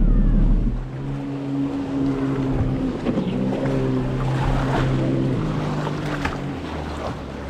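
Personal watercraft engine easing off from high revs about a second in, then running at a steady lower speed with water splashing around the hull. Revs drop again near the end.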